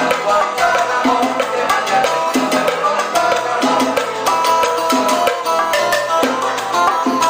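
Live Cuban salsa band playing an instrumental passage: pitched instruments over dense Latin percussion with sharp wood-block or clave-like strokes keeping a steady beat.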